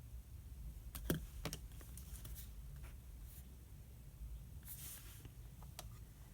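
Quiet desk study sounds: a few sharp taps of a pen or pencil about a second in, scattered light ticks, and a brief paper rustle near the five-second mark, over a low steady room hum.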